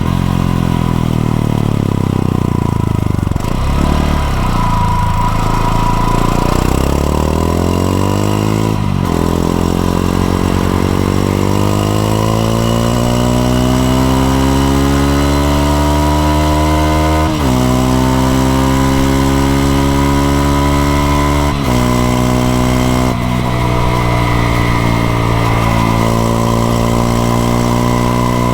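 Honda XRE 190's single-cylinder engine on the move: its note falls as the bike slows, then climbs as it pulls away and accelerates through the gears, dropping in pitch at each of four upshifts.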